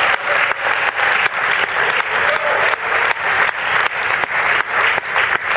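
Church congregation applauding: a dense, steady spread of many hands clapping, with sharp individual claps standing out.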